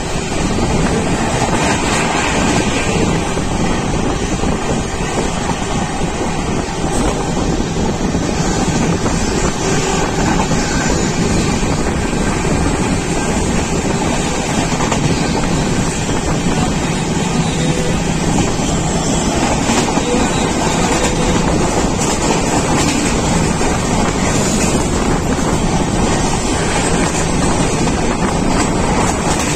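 Steady running noise of a moving passenger train, heard from its window or doorway, with wind rushing over the microphone.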